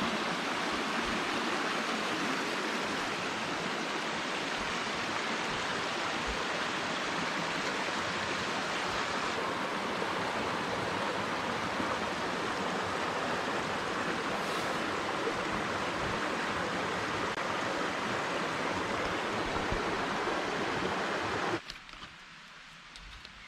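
Stream water rushing steadily. It cuts off abruptly near the end, leaving a much quieter background.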